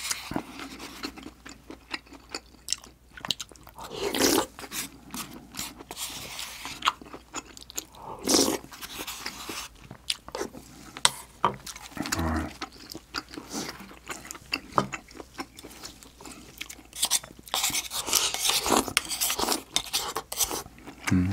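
Close-miked eating sounds: chewing and mouth clicks, with a spoon and chopsticks clicking against bowls. Near the end, chopsticks scrape and tap a tipped-up bowl in a quick run of clicks.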